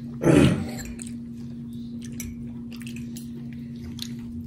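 Close-miked chewing: small wet mouth clicks and squelches of someone eating, with one short, louder sound just after the start. A steady low hum runs underneath.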